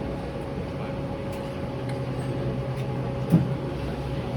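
Steady low machine hum with a faint higher tone above it, and a single knock a little past three seconds in.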